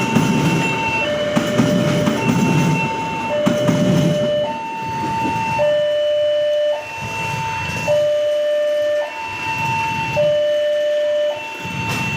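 Electronic two-tone railway warning alarm sounding, switching steadily between a high and a low tone about once a second, over the low rumble of a train.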